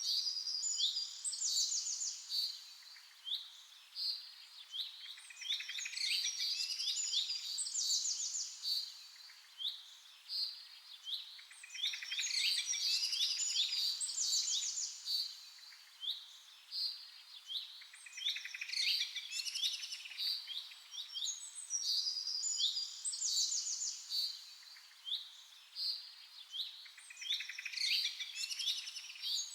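Several birds chirping and singing: clusters of high chirps and fast trills a few seconds long, with quieter gaps between them.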